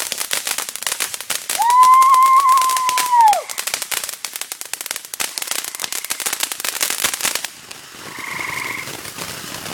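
Consumer firework crackling in a dense, rapid string of small cracks that stops abruptly about seven and a half seconds in. A steady high note holds for nearly two seconds near the start of the crackling and is the loudest part.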